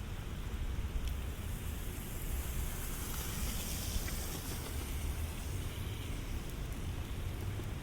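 Steady rain falling, over a low rumble, with a hiss that swells and fades about midway through.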